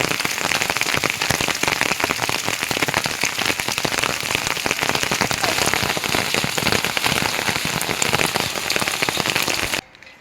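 Heavy rain pouring down, a loud, dense patter of countless drops, which cuts off suddenly near the end.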